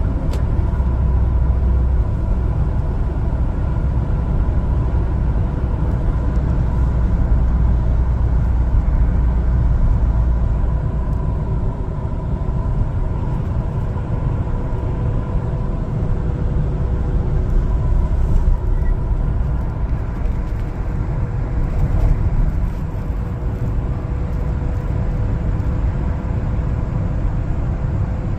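LPG-fuelled one-ton cargo truck driving on the road: a steady low rumble of engine and road noise, with a faint constant whine over it.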